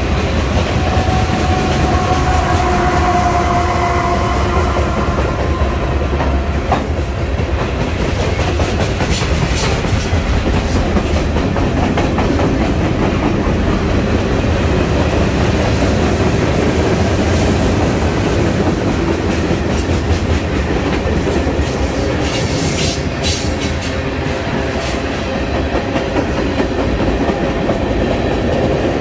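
Freight cars rolling past on the rails, open hopper cars and then tank cars: a steady loud rumble with the clickety-clack of wheels over rail joints. A thin wheel squeal sounds faintly for the first few seconds.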